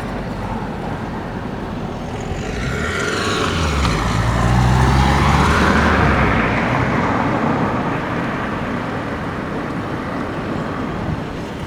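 A motor vehicle passing on a road: engine and tyre noise builds, peaks about five seconds in with a low engine hum, then fades away.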